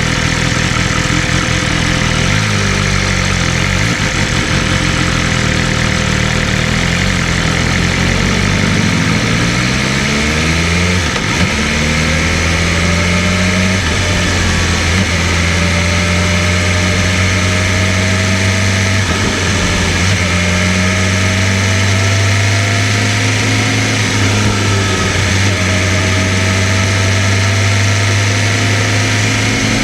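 BMW M1000RR's inline-four engine running while the bike is ridden, over a steady rushing noise. About ten seconds in its pitch climbs quickly as it accelerates, then it holds at a cruise with the pitch creeping slowly upward.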